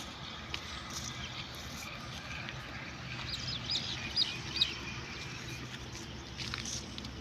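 Birds chirping: a quick cluster of short, high calls between about three and four and a half seconds in, over a steady low background hum.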